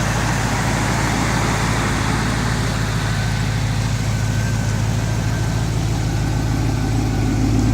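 6.0-litre LS2 V8 from a 2006 Pontiac GTO idling steadily on an engine stand, running through a 1998 Camaro exhaust.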